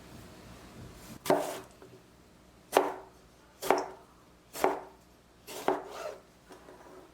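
Knife chopping on a cutting board: five sharp, separate strokes about a second apart, with a few lighter taps near the end.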